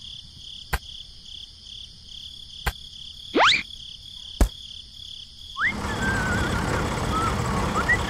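Steady cricket-like chirring, broken by three sharp clicks and one quick rising whistle. About two-thirds of the way through, a steady engine-like running noise starts, with short chirps over it.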